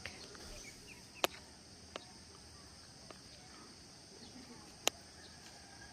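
Quiet rural outdoor ambience: a steady high drone of insects such as crickets, with faint bird chirps. Three sharp clicks come about a second in, at two seconds and near the end.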